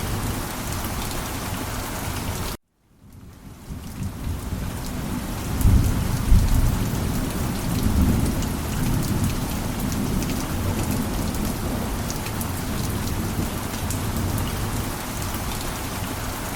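Heavy rain falling steadily, with a low rumble of thunder rolling about six seconds in. The rain cuts out abruptly for a moment about two and a half seconds in and swells back up.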